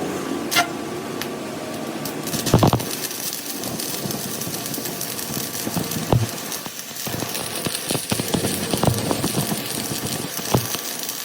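Workshop metalworking noise on a bulldozer drive hub gear: a steady hiss with irregular knocks and clanks, the loudest about two and a half seconds in.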